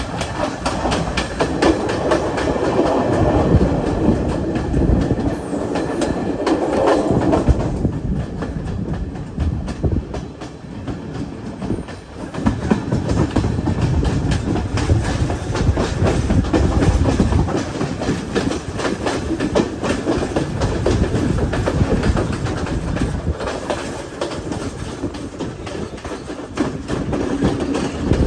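Train running along the track, its wheels clattering over the rail joints with a steady run of clicks over a rumble. It eases quieter for a few seconds about a third of the way through.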